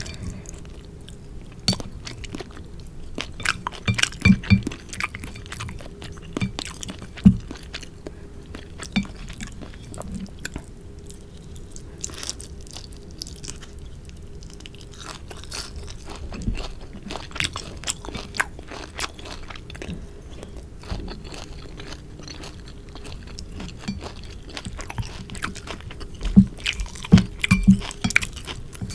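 Close-miked chewing and crunchy biting of sukiyaki, irregular small crunches and clicks throughout, with louder clusters of bites about four seconds in, around seven seconds, and near the end.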